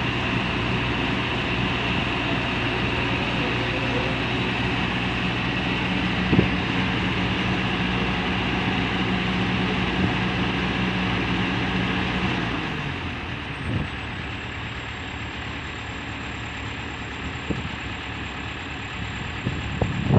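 Heavy diesel engine of construction machinery running steadily at raised revs, then winding down about two-thirds of the way through to a lower, quieter idle. A few faint knocks sound over it.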